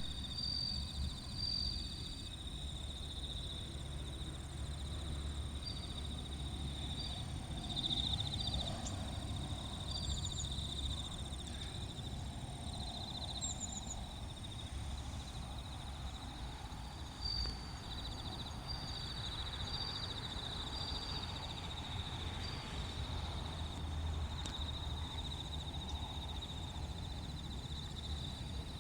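Bell crickets (suzumushi) and other insects singing: a steady high-pitched trill with short, repeated chirps on top, over a low steady rumble.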